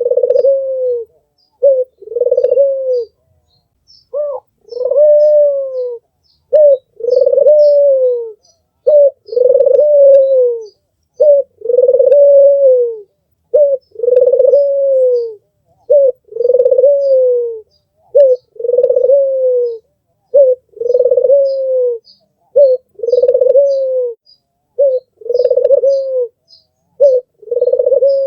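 White, red-eyed (albino) Barbary dove cooing over and over: each phrase is a short note followed by a longer coo that rises a little and falls, repeated about every two seconds.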